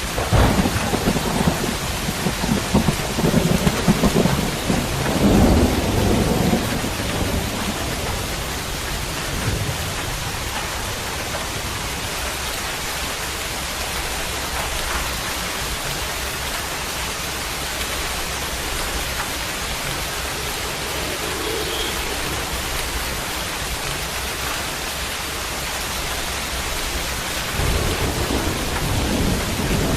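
Steady rain falling, with thunder rumbling for the first several seconds, faintly again about two-thirds of the way through, and building again near the end.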